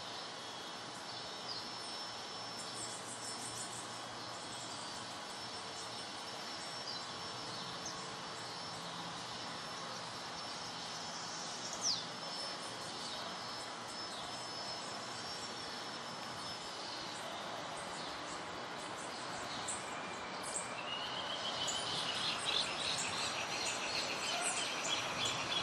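Steady hiss of rain falling on grass and flowers, with a thin, high insect drone throughout and birds chirping, busier and louder in the last few seconds.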